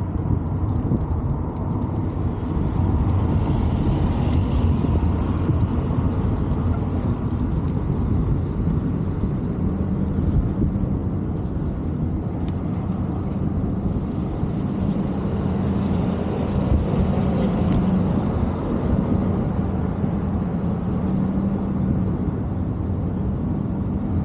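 Steady low rumble of wind and road noise on the microphone while riding, with a faint vehicle hum through the middle.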